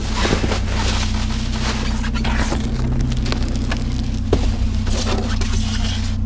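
Rummaging through junk in a dumpster: irregular clattering, rustling and scraping of items being moved, over a steady low hum of a running vehicle engine.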